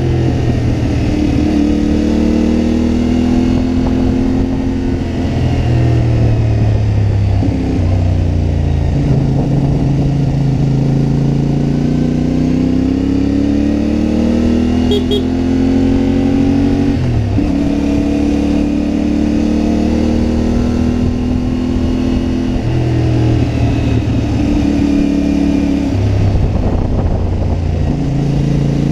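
CFMoto 450MT parallel-twin motorcycle engine under way, its note rising under throttle and dropping at several gear changes, with wind and road noise underneath.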